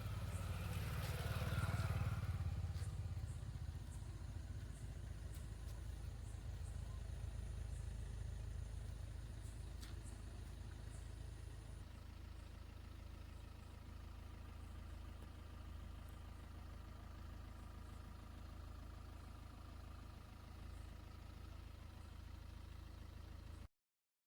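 Vehicle engine idling steadily, with a brief rise in revs about a second in that settles back to a smooth idle. The sound cuts off abruptly near the end.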